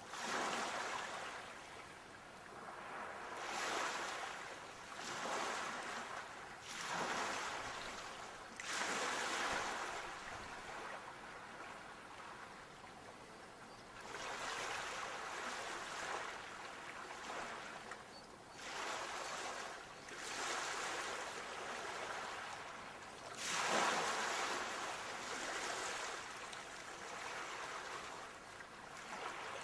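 Sea waves breaking one after another: surges of surf noise that swell and fall back at uneven intervals, the loudest about two-thirds of the way through.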